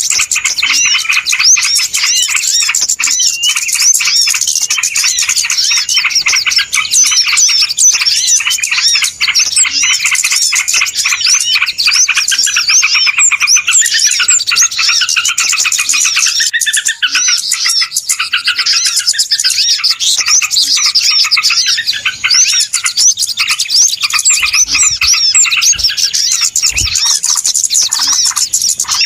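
A dense, noisy chorus of many small birds chirping and twittering at once, the calls overlapping without pause. It is the kind of busy flock sound played as a bird-trapping lure (pikat).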